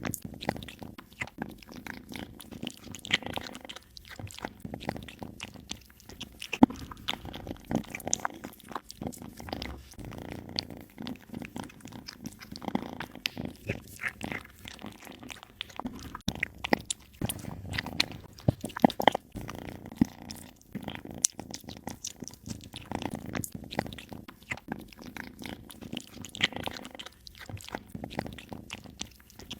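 A cat eating: irregular crunching and smacking chews.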